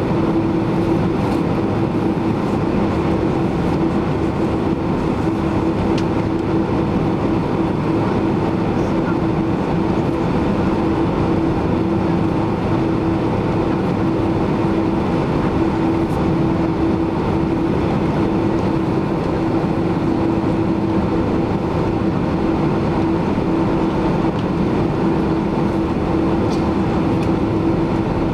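Steady cabin drone inside a Boeing 767-300ER, the engines and cabin air running, with a constant mid-pitched hum over an even rushing noise.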